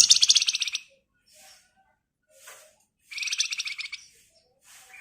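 Flamboyan (wergan Jawa) songbird singing its fast rattling trill, the 'ngebren' that keepers use as a lure. There are two loud bursts of rapid, evenly spaced notes, one at the start and one about three seconds in, with faint short calls between them.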